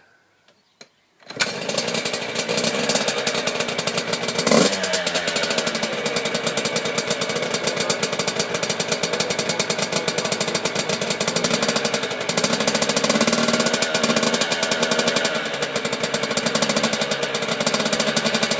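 Motorcycle engine running steadily, cutting in abruptly about a second in, with one brief louder burst at about four and a half seconds.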